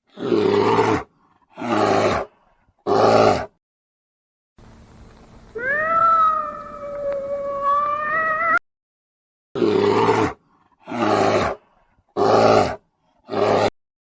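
Animal calls: three short loud calls, then one long drawn-out pitched call of about four seconds, then four more short calls in a row.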